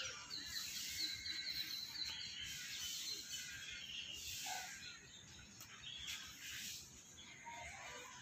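A small bird gives a rapid, high trill for about two seconds near the start, then a few scattered chirps, over faint steady background noise.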